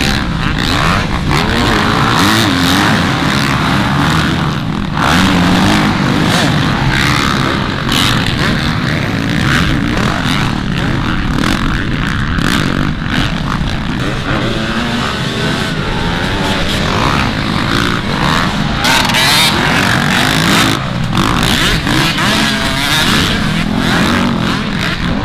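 Motocross dirt bike engines running on the track, revving up and down as the bikes race.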